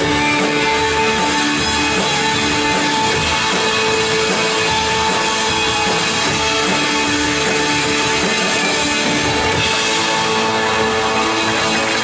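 Live worship band playing on without singing after the song's last line, with guitars and drums and held chords.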